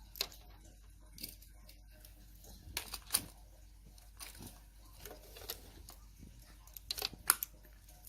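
Scattered light clicks and clacks of plastic toy racetrack pieces and die-cast cars being handled and adjusted, with the loudest couple of clacks about seven seconds in.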